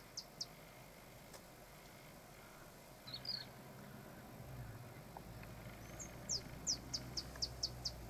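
A bird calling in runs of quick, high, falling notes, about four a second: a few at the very start and a run of about seven near the end, with a short chirp about three seconds in. A low steady hum comes in about halfway through.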